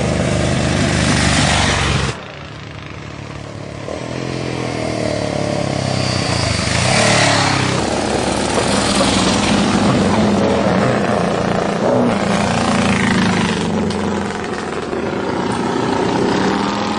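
Vintage racing motorcycles at full throttle on a hill climb, engines at high revs rising and falling in pitch as bikes pass one after another. The sound changes abruptly about two seconds in.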